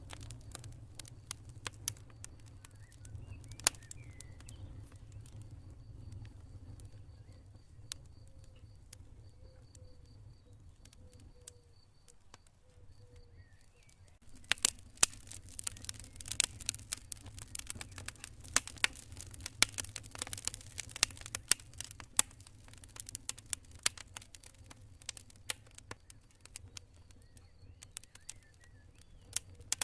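Campfire crackling: scattered sharp pops and snaps over a low steady rumble, turning into dense crackling about halfway through. Crickets chirp faintly in a high pulsed trill during the first half.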